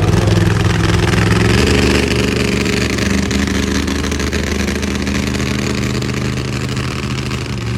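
Monster truck engine running loud, its pitch stepping up about a second and a half in and then holding at high revs.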